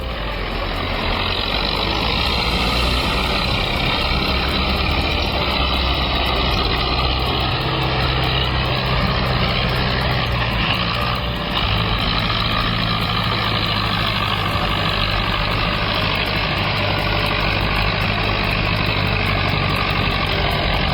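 Heavy tractor engine running steadily under load, with a deep, even hum. There is a brief dip about eleven and a half seconds in, after which the hum continues at a slightly different pitch.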